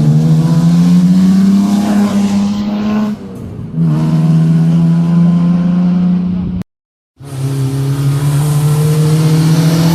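Rally car engine at full throttle, rising in pitch over the first three seconds, then held at high revs. The sound cuts out abruptly for a moment about two-thirds through and returns with an engine again at high revs.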